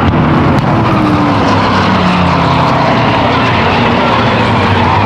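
V8 stock cars and race trucks running on the oval. The loud engines drone steadily, with their pitch dropping as cars go by.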